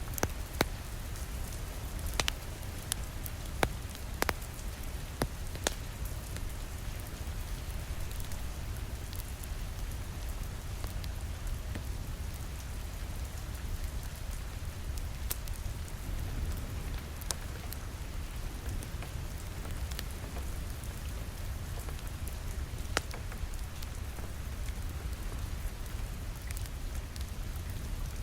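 Steady rain pattering on a window, with the sharp, scattered crackles of a wood fire in a fireplace, more of them in the first few seconds.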